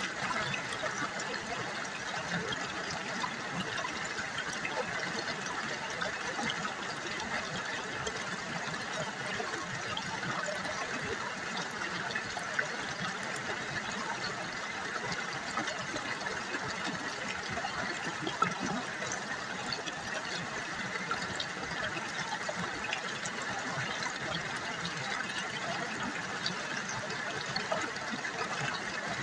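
River water trickling and burbling steadily, with a constant splashing hiss scattered with tiny droplet ticks.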